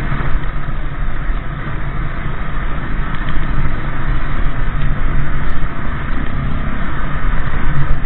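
Motorcycle engine running at road speed, with steady, loud wind noise rushing over the microphone.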